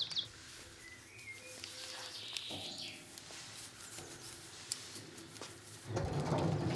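Birds chirping now and then over a faint steady low hum; near the end a louder low rumble comes in.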